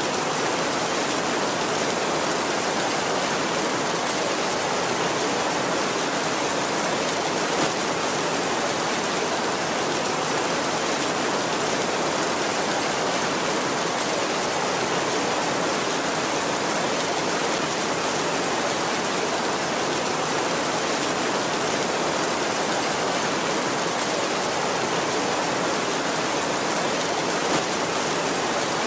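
Heavy rain falling steadily on a tin roof, an even, unbroken hiss of drops.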